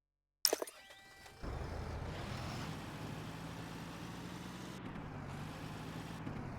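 Tractor engine running steadily with a low hum that wavers slightly. It comes in suddenly about a second and a half in, after a short sharp click.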